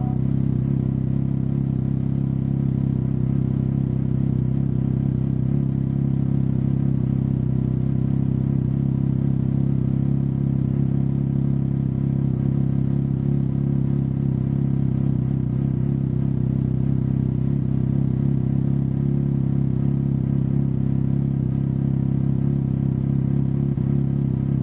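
Can-Am Ryker 900's three-cylinder Rotax engine running at a steady, even speed with a low hum and no revving.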